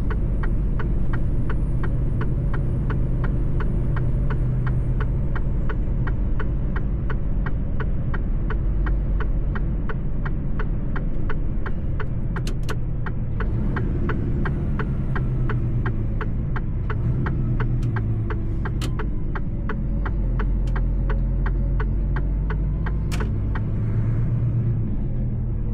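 Mercedes-Benz truck engine running steadily under way, a low rumble with a regular ticking about three times a second.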